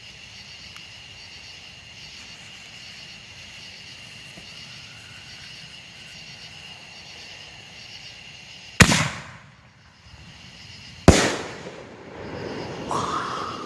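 Consumer fireworks going off: two sharp loud bangs a little over two seconds apart, each trailing off as it echoes, then a rushing hiss near the end. A steady high insect trill carries on underneath.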